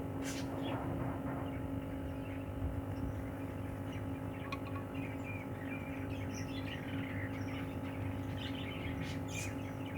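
Budgerigars chirping in many short, scattered calls over a steady low hum, with a few sharp clicks near the start and end.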